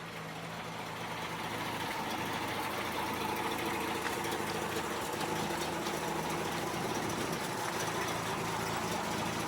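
1958 Rambler's 195 cubic-inch inline-six engine idling steadily, with an even low hum.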